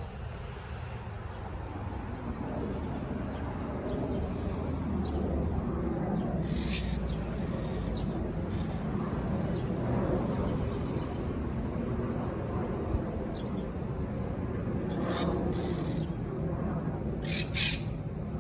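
Birds giving a few short, harsh calls, once about a third of the way in, again near the end and then twice in quick succession, over a steady low rumble of wind or distant traffic.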